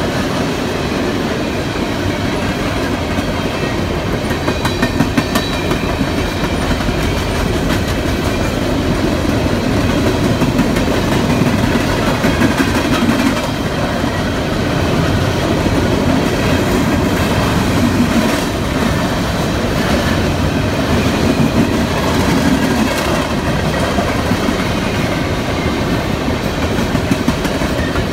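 CSX coal train's open-top hopper cars rolling past at a steady speed: a continuous rumble with the rhythmic clickety-clack of steel wheels over the rail joints.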